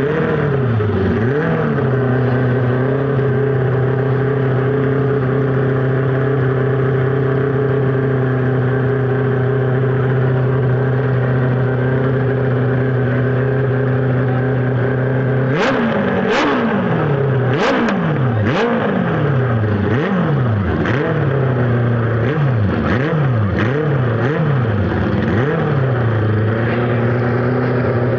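Honda CB450 'Black Bomber' parallel-twin engine revved briefly, then idling steadily. From a little past halfway the throttle is blipped about ten times in quick succession, each rev rising and dropping back, before the engine settles to idle near the end.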